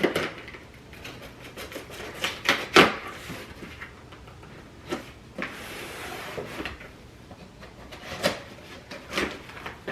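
A cardboard shipping box being handled and opened: scattered knocks and clicks, with a short rasping rustle about five and a half seconds in.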